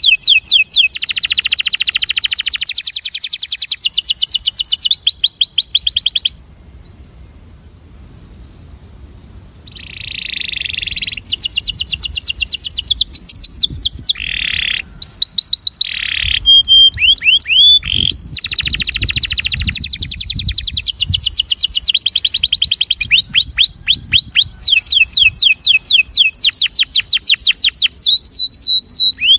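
Male domestic canary singing its courtship song: fast trills of quickly repeated downward-sweeping notes, changing from one phrase to the next. The song pauses for about three seconds after six seconds in, then resumes with a buzzy roll and further trills.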